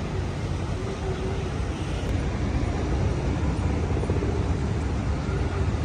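Steady low engine rumble with an even background hiss, swelling slightly about two seconds in.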